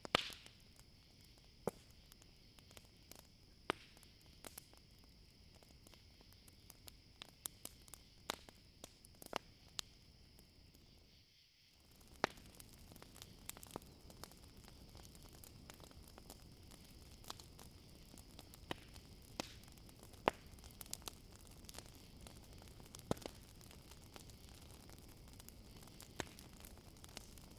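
Campfire crackling, with irregular sharp pops and snaps, over a steady high chirring of crickets. The background briefly dips out a little past halfway.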